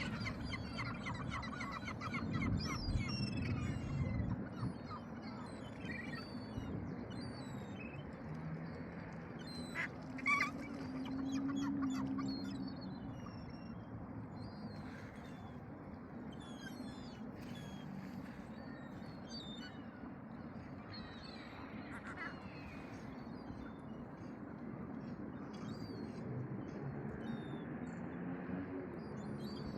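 Many birds calling at an estuary: a dense run of calls in the first four seconds, then scattered chirps, over a steady background rush.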